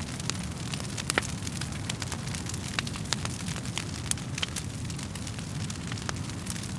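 Wood fire burning in a fireplace: a steady low rumble of the flames with irregular sharp crackles and pops of the burning wood, a louder pop about a second in.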